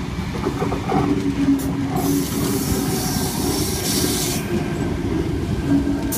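Tangara electric train running into the platform: a steady rumble of wheels on the rails under a faint hum, with a hiss that rises about two seconds in and stops a couple of seconds later.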